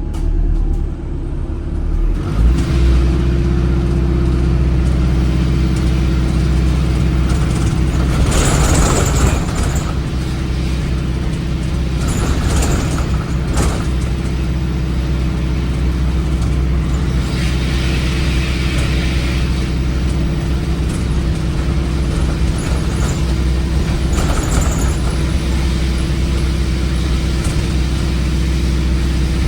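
Cummins ISBe 4.5-litre four-cylinder diesel of an Alexander Dennis Enviro 400 hybrid bus working hard at full throttle up an incline: a loud, steady drone that picks up about two seconds in and holds, with a few short rushes of higher noise over it.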